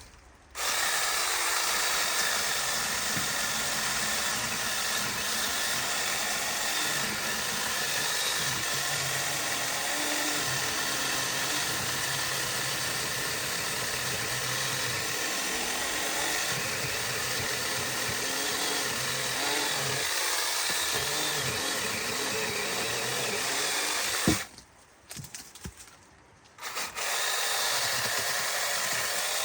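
Chainsaw running steadily, cutting branches. It stops abruptly about 24 seconds in and starts again about two seconds later.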